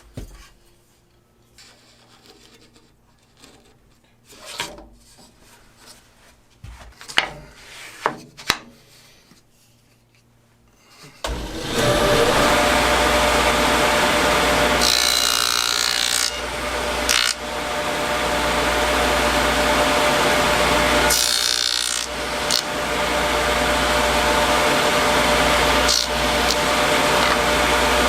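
A few scattered knocks and clicks of handling, then about eleven seconds in a power tool starts suddenly and runs loud and steady, cutting wood, with a couple of short dips in level.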